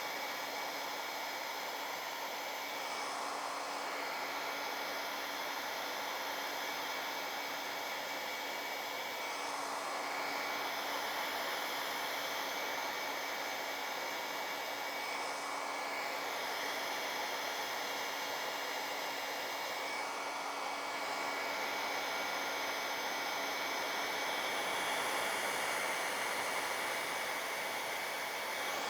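Handheld hair dryer running steadily on high, blowing a fluid paint pour across a canvas, with a motor whine under the rush of air; its sound shifts briefly every five or six seconds as it is swept over the canvas.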